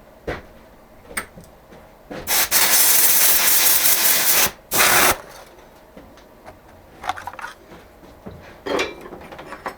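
A loud pressurized hiss lasting about two seconds, then a second short burst, among small clicks and clatter of tools being handled.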